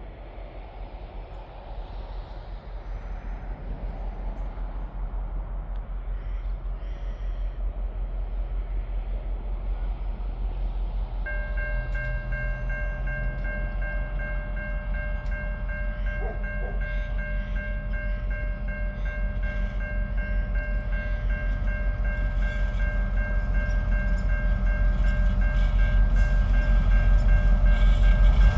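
TasRail 2050 class diesel locomotives 2051 and 2054 approaching, their engines' low throbbing rumble growing steadily louder. About a third of the way in, a steady high ringing starts and continues, typical of level crossing warning bells.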